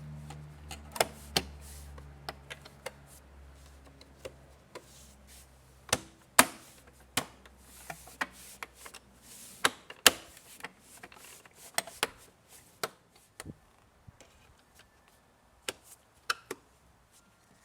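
Irregular sharp clicks and knocks of hard objects being handled, about two dozen of them, the loudest around the middle. A low hum dies away in the first two seconds.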